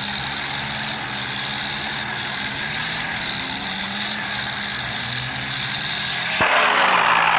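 Tractor engine running steadily; about six and a half seconds in, after a click, it gets louder and rougher.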